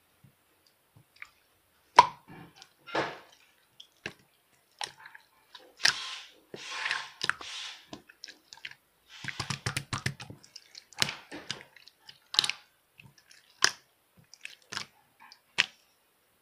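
Slime being squished and poked by hand: irregular wet clicks and pops, with longer squelching stretches partway through.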